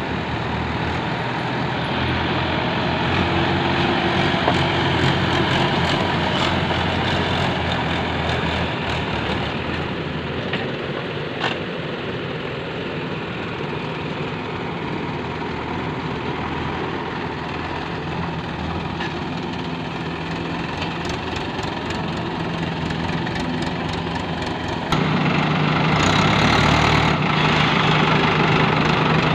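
Heavy diesel engine running steadily at low revs, growing suddenly louder near the end.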